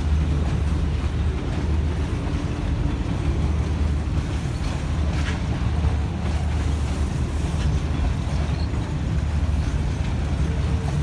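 Passenger train coaches rolling past on the track, a steady low rumble of wheels on rail, with one brief sharper sound about five seconds in.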